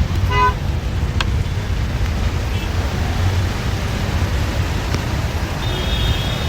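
Steady low rumble of a moving bus's engine and road noise heard from inside the cabin. A brief pitched sound comes near the start.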